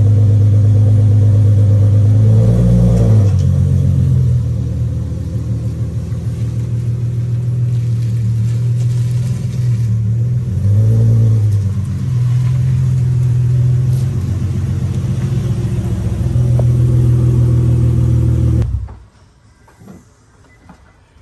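Infiniti G37's swapped-in VR30 twin-turbo V6 running at low revs as the car is moved and parked, with the engine note shifting in pitch a few seconds in and again around the middle. The engine is switched off about 19 seconds in and the sound cuts out suddenly.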